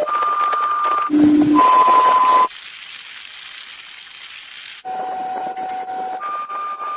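A run of steady electronic tones jumping between pitches, each held for half a second to a couple of seconds. In the middle comes a hiss of about two seconds with a high whistle-like tone over it, then the tones resume.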